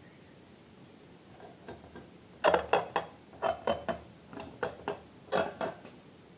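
Slime-making materials being handled: after a quiet start, a run of irregular sharp clicks and short wet squelches begins about two and a half seconds in.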